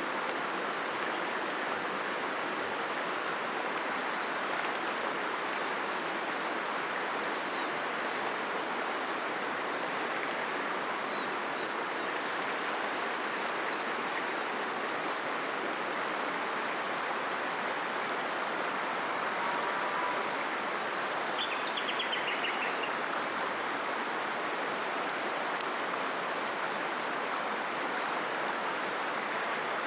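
River water flowing, a steady rush, with small birds chirping faintly now and then and a short stuttering bird trill about two-thirds of the way in.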